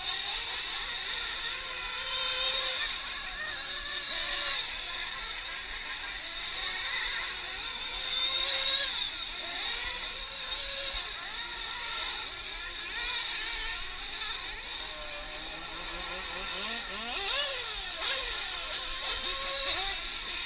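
Several 1/8-scale nitro RC truck engines racing around the track together, their high-pitched whine rising and falling as the trucks accelerate and back off.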